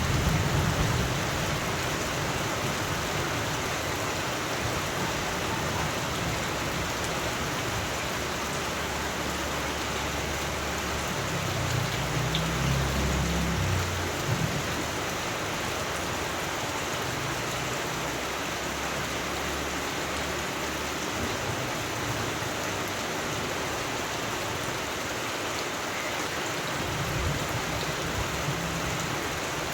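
Steady rain falling, with low rolls of distant thunder: one fading away at the start, another about halfway through, and a fainter one near the end.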